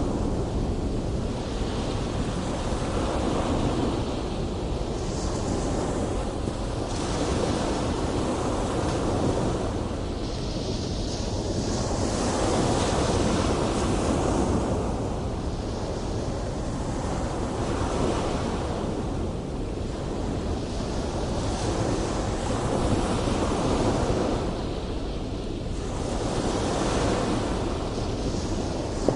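Big ocean waves breaking and washing in, a steady rush of surf that swells and eases every few seconds, with wind buffeting the microphone.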